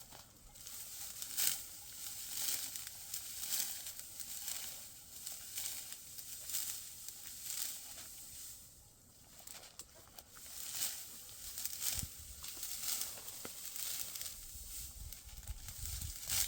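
Dry wheat stalks rustling and crunching in a series of short, dry strokes, roughly one a second, with a brief lull partway through.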